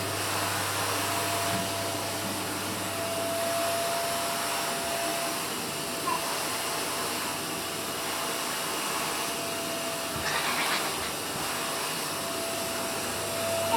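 Vacuum cleaner running steadily: a continuous rushing of air with a thin, steady motor whine.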